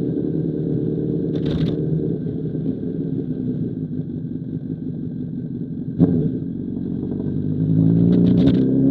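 Honda CBR1000RR SC57's inline-four engine running through an SC Project CR-T exhaust, with a steady engine note. A single sharp knock sounds about six seconds in, and the engine gets louder near the end.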